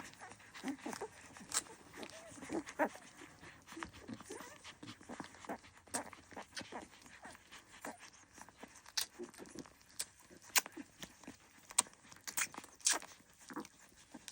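Litter of young Dalmatian puppies making short squeaks and whimpers, with scattered sharp clicks and rustles from the puppies moving about.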